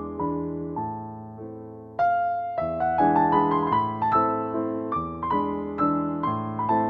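Background music on solo piano: gentle chords and melody notes, growing fuller and louder about two seconds in.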